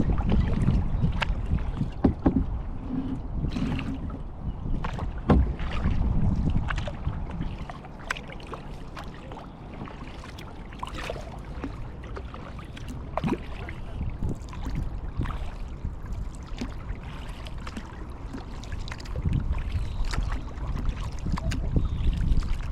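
Kayak paddling: irregular splashes and drips of water from the paddle blades, with a few knocks. Under them is a low wind rumble on the microphone, heavier in the first several seconds and again near the end.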